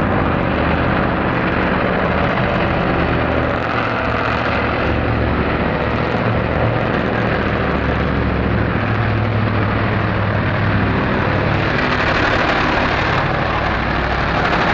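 Heavy off-road vehicle engine running steadily with a low, even drone.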